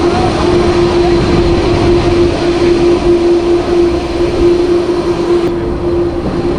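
Twin-engine jet airliner's engines at full takeoff power, heard from directly behind in the jet blast: a loud, steady roar with a droning tone through it, and the blast's wind buffeting the microphone.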